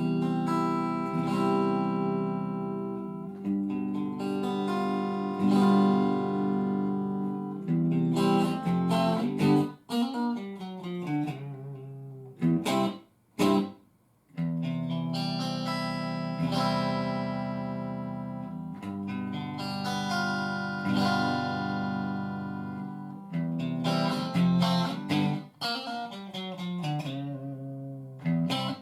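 Electric guitar played clean through a Marshall DSL5 5-watt valve combo with a 10-inch Celestion Ten-30 speaker: ringing chords and picked notes with a few short stops, and the same phrase played a second time from about halfway through.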